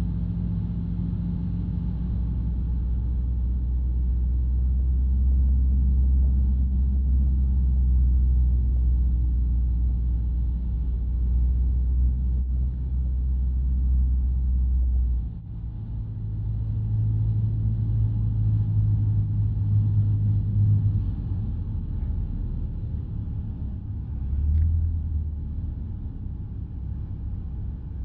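Van's RV-12 single-engine light aircraft's engine and propeller droning inside the cockpit. The deep drone drops away suddenly about halfway through, and the engine note then rises and falls in pitch several times.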